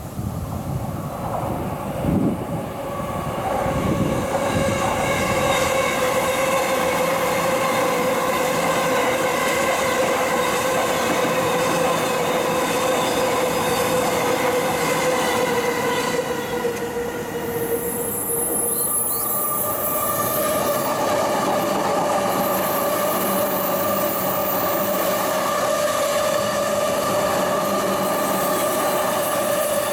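Two E233-series Chuo Rapid Line electric trains pass one after the other. Each gives off a steady high whine over the running noise, and the second whine, starting about two-thirds of the way through, is slightly higher than the first.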